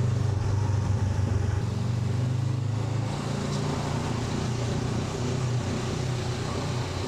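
Honda NX500's parallel-twin engine running steadily under way, easing slightly about three seconds in.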